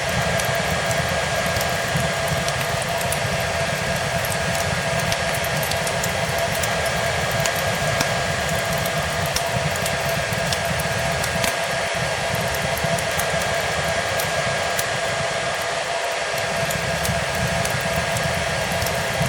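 Hair dryer running steadily: a continuous rush of blown air with a steady motor whine. Fireplace crackle is mixed in underneath as scattered small pops over a low flickering rumble.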